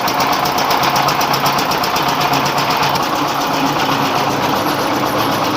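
Rice-milling machinery driven by a 24 hp dompeng diesel engine running steadily at working speed, a loud even drone with a fast, regular ticking beat from the engine's firing and the mill's moving parts.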